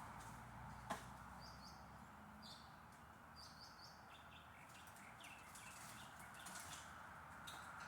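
Faint bird chirps, short and high, several in quick pairs, over quiet background hiss, with a single sharp click about a second in.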